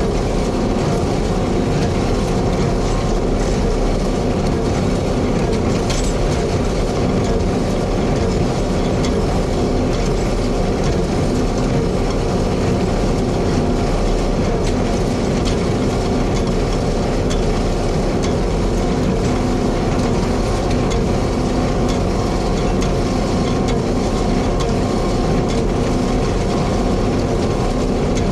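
Hay-handling farm machinery running steadily with a continuous mechanical rattle and clatter.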